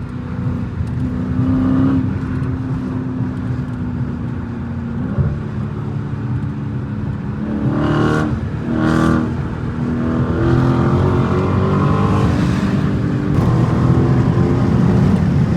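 Straight-piped Dodge Challenger Scat Pack's 6.4-litre HEMI V8 exhaust under way, at a steady drone at first. About eight seconds in come two sharp bursts a second apart, then the engine note climbs and grows louder as the car pulls harder.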